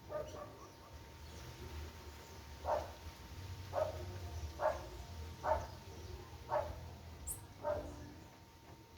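A dog barking: six short barks spaced about a second apart, over a steady low rumble.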